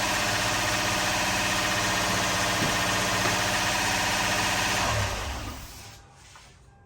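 Lexus GX470's 4.7-litre V8 running steadily on its first start after a rebuild, which to the owner sounds a little funny, then switched off about five seconds in and dying away.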